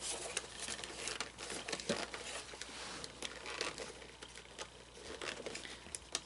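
Fabric rustling and crinkling in handling, with scattered small scuffs and taps, as clothing is worked over the figure.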